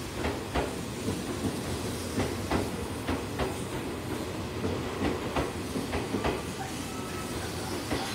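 Tokyu 8500 series electric train pulling out past the platform: a steady rumble of the moving cars with the wheels clacking over the rail joints, the clacks coming in pairs as each bogie passes.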